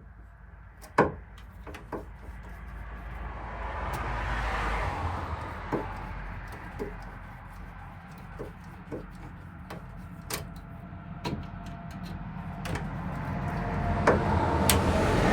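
Scattered light clicks and knocks of hand-driving screws into a wooden cupboard's hinge with a multitool, over a background noise that swells and fades twice.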